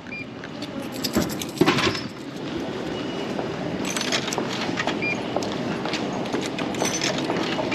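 Two clunks about a second in as a bottle drops through the vending machine, then the steady rumble of a train running through the station, with a short electronic beep near the middle.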